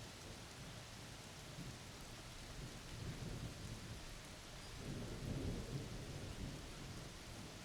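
Steady rain with rolling thunder: a low rumble that builds about halfway through, peaks, then eases back.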